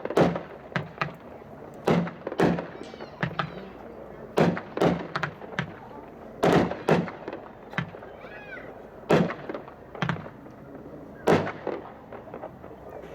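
Two 'Wanted by Hot Shot' 10-shot 200-gram consumer cakes firing together, sharp shot bangs coming in close pairs about every two seconds.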